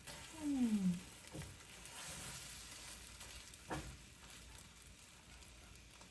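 Silicone kitchen utensils being handled: a few soft clicks over a steady hiss, with a short falling squeak about half a second in.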